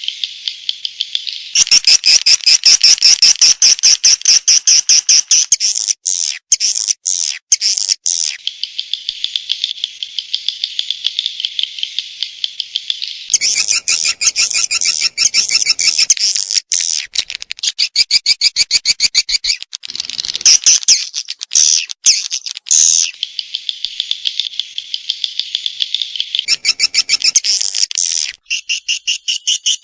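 Recorded edible-nest swiftlet calls, dense trains of rapid high chirps in segments that switch abruptly from one to the next. This is a looped calling sound of the kind played to lure swiftlets into a nesting house.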